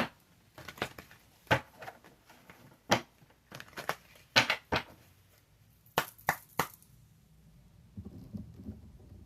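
Tarot cards being handled and laid down: a run of irregular sharp snaps and taps, about a dozen over six or seven seconds, then quieter handling near the end.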